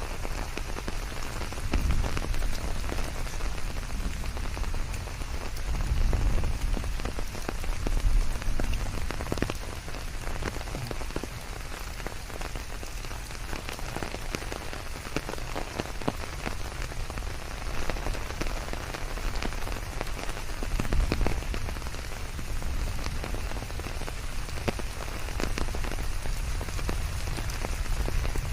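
Steady rain with many close drops pattering, laid over white noise. A low rumble swells up a few times underneath.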